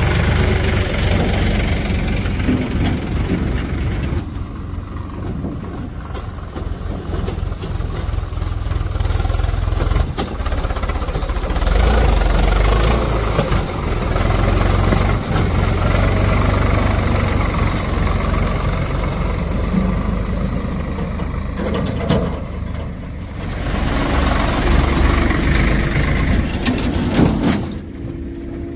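Heavy diesel machinery running with a deep, steady rumble that swells and eases as it works, with a few clanks along the way.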